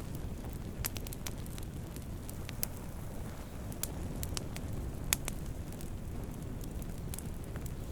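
Wood fire burning steadily over a low rumble, with irregular sharp crackles and pops from the burning wood, the loudest pop about five seconds in.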